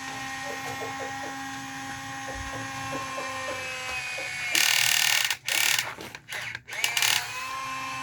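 A small motor whines steadily. From about four and a half seconds to seven seconds it gives way to several loud, rushing, scraping noise bursts, then the whine starts again near the end.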